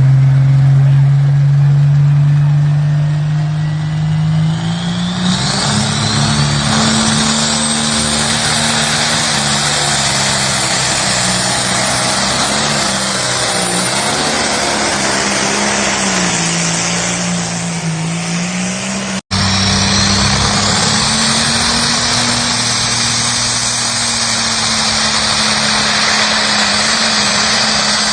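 A pulling tractor's engine at high throttle on a pull. The low engine note climbs about five seconds in as a dense roar and a rising high whine come in over it. The sound drops out for an instant about two-thirds of the way through, then resumes just as loud.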